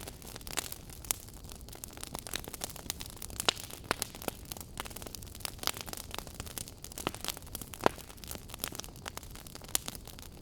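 Wood fire crackling in a fireplace: frequent irregular sharp pops and snaps, a few of them louder, over a soft steady hiss.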